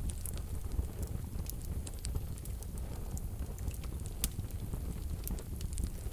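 Wood fire burning in a wood-burning stove: a low steady rumble of flames with irregular sharp crackles and pops, the loudest about four seconds in.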